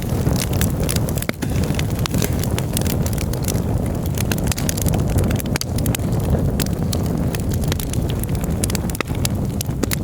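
Campfire burning, the wood crackling with many sharp irregular pops over a steady low rumble.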